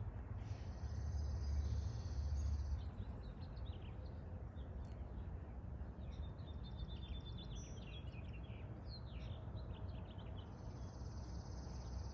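Outdoor ambience: an insect's steady high trill, heard twice, first for a couple of seconds at the start and again near the end, with birds chirping in between, over a low rumble.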